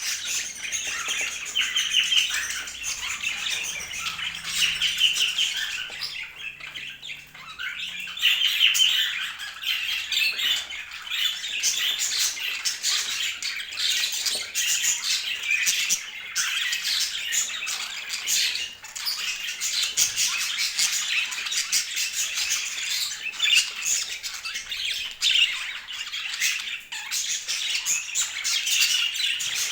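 Budgerigars chattering: a dense, unbroken stream of squawks, chirps and warbles, with a short lull about seven seconds in.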